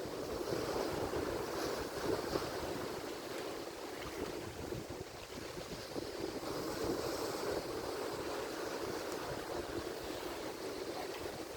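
Atlantic Ocean surf: waves breaking and washing in a continuous rushing noise that swells and eases gently.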